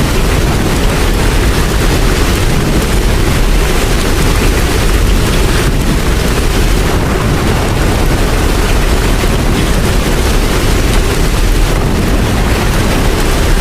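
Steady rain, a dense even hiss with a strong low rumble underneath.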